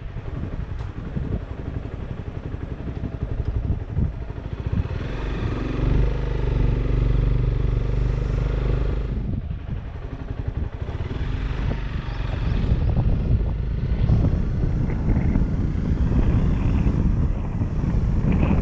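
Honda CBR250R's single-cylinder engine running under way, its note rising about six seconds in, dropping off briefly near nine seconds, then picking up again, with wind buffeting the helmet-mounted microphone.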